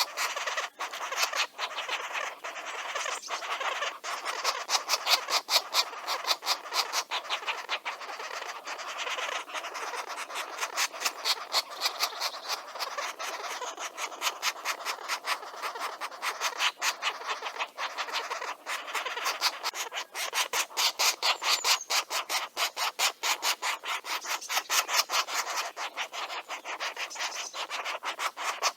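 Green woodpecker nestlings begging: a continuous rasping call made of rapid pulses, several a second, that rises and falls in loudness without a break.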